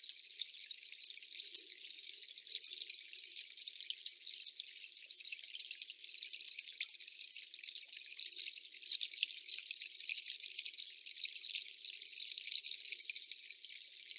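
Water dripping: a steady crackly patter of many small drips close together.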